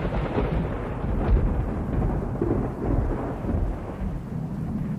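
Heavy rain pouring down, with a deep low rumble running steadily underneath.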